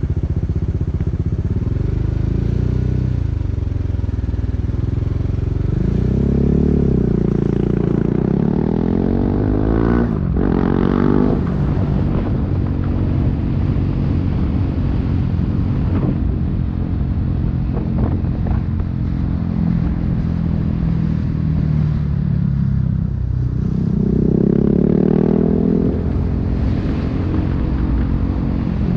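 BMW G 310 R's single-cylinder engine through an Akrapovic racing exhaust, revving up and easing off several times as the bike pulls away and rides in traffic. The pitch climbs sharply about ten seconds in and drops at once, as at a gear change. It runs steadier through the middle.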